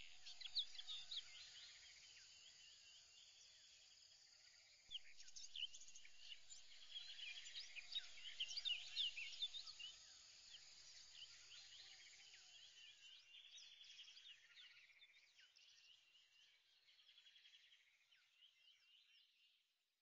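Faint chorus of small birds, many short high chirps overlapping. It swells about five seconds in, is busiest in the middle, then thins and fades out near the end.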